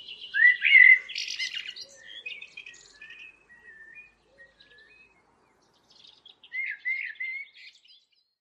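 A bird singing: chirped phrases that glide up and down, loudest in the first couple of seconds, then quieter notes, a pause, and another phrase near the end.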